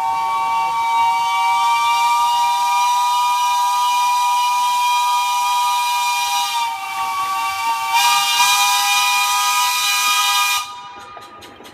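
Steam locomotive's chime whistle blowing one long, steady chord over hissing steam. It dips briefly about two-thirds of the way through and cuts off suddenly near the end.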